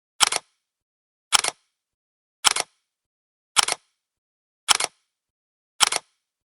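Six sharp clicks, evenly spaced about a second apart, each a quick double snap.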